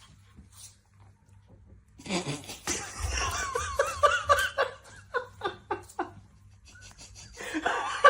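A person laughing in quick, repeated bursts, starting about two seconds in, then a second bout of laughter near the end.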